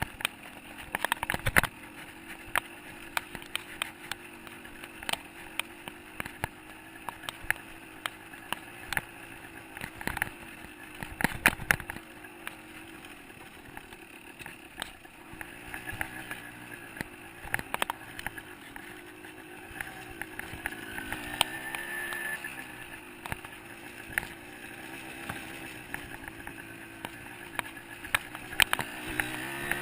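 125cc two-stroke dirt bike engine running on a trail ride, its pitch wavering up and down with the throttle. Frequent sharp clicks and knocks sound over it, loudest about a second in and around eleven seconds in.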